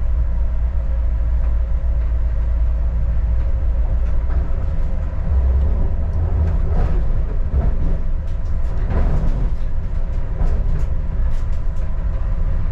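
Adelaide Metro diesel railcar running along the track, heard from inside the carriage: a steady low rumble of engine and wheels, with faint clicks from the wheels on the rails.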